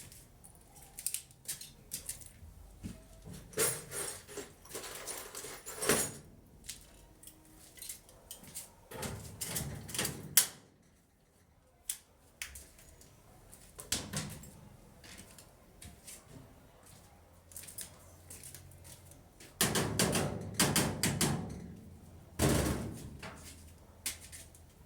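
Irregular clatter of hard objects being handled: scattered clicks and knocks, with longer bursts of rattling about four seconds in, around ten seconds, and near the end.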